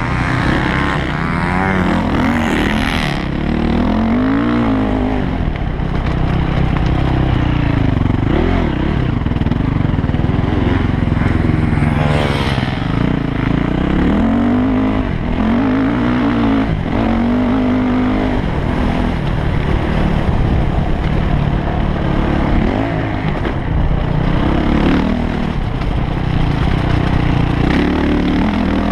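Yamaha YZ450F motocross bike's four-stroke single-cylinder engine being ridden hard, its pitch rising and falling again and again as the throttle is opened and closed.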